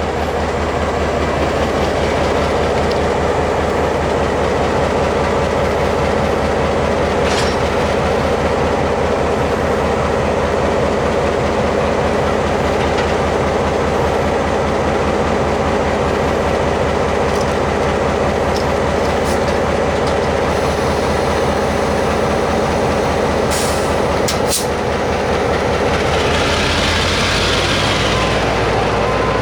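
A locomotive running steadily at close range, giving a continuous loud drone. Near the end a short hiss swells and fades as the low pitch shifts.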